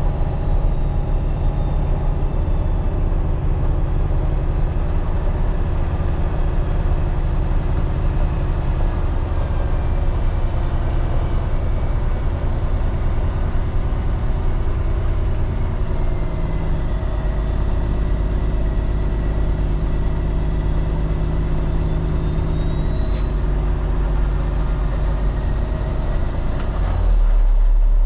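Heavy diesel truck engine running steadily, with a faint high whine that drifts slowly up and down in pitch from about halfway. Near the end the low rumble steps up louder.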